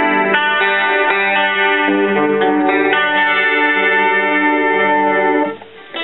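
Electric guitar played through a Roland Jazz Chorus combo amplifier with two 10-inch speakers, chords ringing one into the next. The playing stops briefly near the end.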